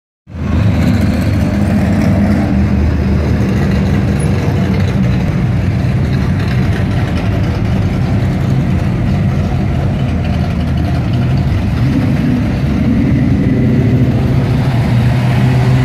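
Classic cars cruising slowly past in a line, their engines making a steady low rumble.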